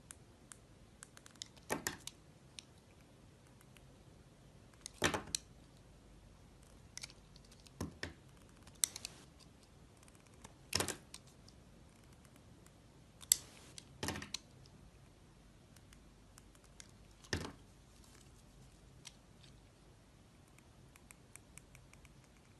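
Knife cutting into a bar of soap: a series of short, crisp cuts at irregular intervals, about eight in all, with faint ticks between.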